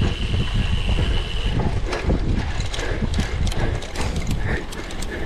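Cyclocross bike rattling and clattering over rough ground at race pace, many irregular knocks over a constant low rumble, with a thin steady high tone for the first second and a half.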